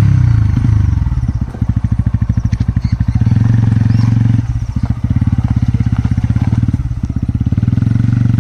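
TVS Ronin's single-cylinder engine running with a steady, rapid exhaust beat. Its pitch falls at the start, then it holds at an even pace with two short dips.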